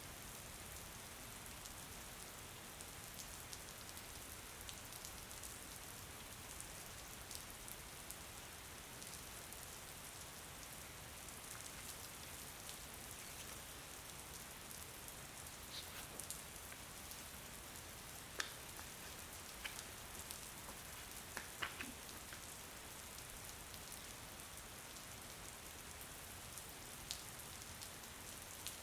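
Steady rain, an even hiss, with a few sharper ticks scattered through it, the loudest about 18 seconds in.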